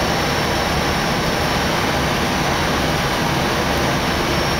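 Steady cockpit noise inside an Airbus A319: an even rush of airflow and air-conditioning hiss with engine hum beneath, unchanging throughout.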